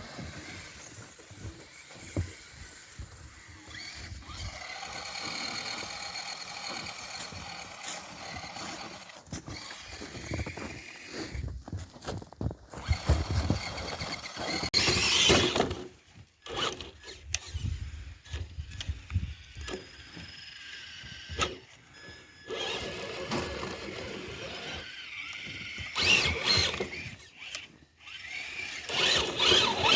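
Radio-controlled crawler trucks driving: electric motors and gears whining, rising and falling with the throttle, with scattered clicks and crackling from tyres working through snow and ice.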